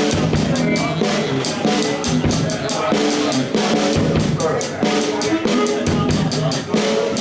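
Live blues band playing with no singing: a drum kit keeps a steady beat of snare, bass drum and cymbal hits under guitar and bass notes.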